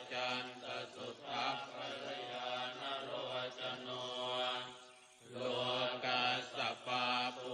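Buddhist chanting: a low, steady monotone chant that breaks off briefly about five seconds in and then resumes on the same pitch.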